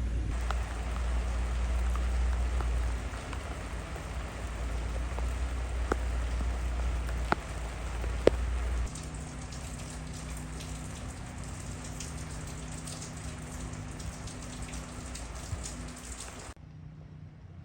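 Rain falling steadily, with sharp drops striking a surface now and then. A low rumble under it drops away about halfway through, and the rain cuts off abruptly near the end.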